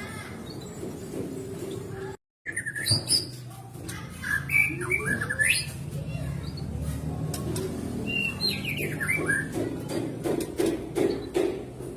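White-rumped shama (murai batu) singing: short bursts of clear whistled notes with quick rising and falling sweeps. The audio drops out briefly about two seconds in.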